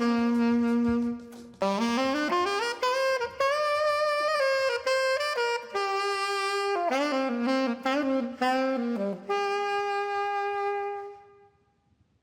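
Solo saxophone playing a jazz melody line, one note at a time, ending on a long held note that fades out near the end.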